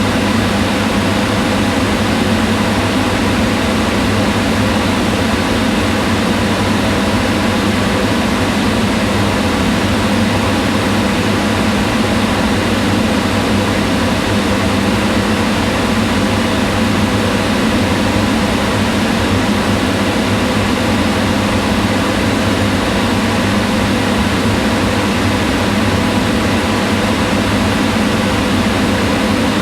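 Kitchen range hood fan running steadily, an even whirring hum with a low drone.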